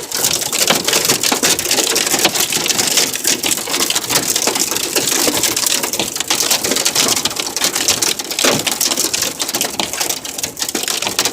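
Large hailstones and rain pelting a car's roof, body and windshield, heard from inside the car as a loud, dense, continuous clatter of impacts. Hail this heavy is damaging the car.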